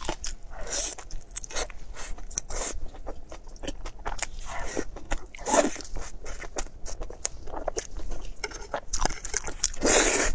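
Close-miked eating sounds: chewing a fried egg with many wet mouth clicks and smacks, broken by a few short sucking breaths, then a longer slurp near the end as strands of shredded vegetables are sucked up.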